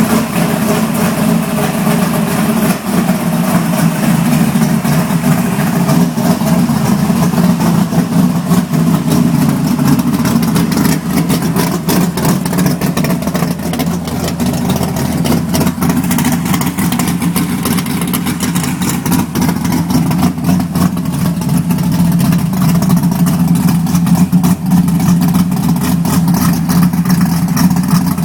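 Ford Mustang exhaust idling steadily through newly fitted mufflers: a loud, even, deep exhaust note.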